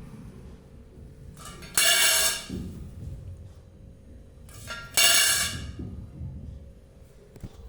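Pet parrot squawking: two harsh, loud screeches, the first about two seconds in and the second about three seconds later.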